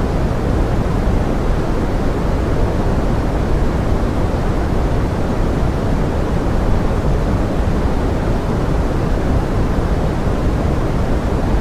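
Steady pink noise mixed as forest rain: an even, deep rushing hiss that never changes.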